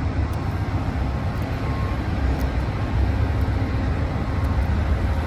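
Stopped Amtrak passenger train's diesel locomotive running at a standstill: a steady deep rumble with faint steady tones above it.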